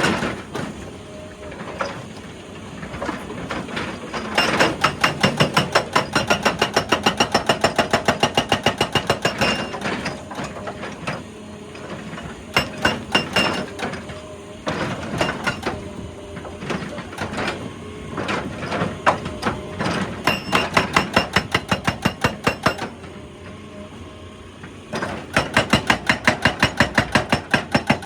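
Excavator-mounted hydraulic breaker hammering rock in rapid bursts of blows lasting a few seconds each, with pauses between bursts where the machine's engine runs on.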